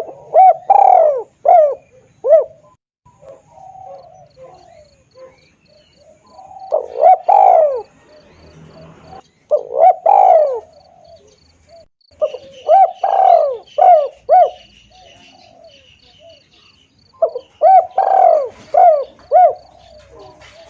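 Spotted dove (tekukur) cooing: five bouts of several low, rising-and-falling coos, a few seconds apart. Underneath from a few seconds in is a faint, rapid, high ticking like an insect.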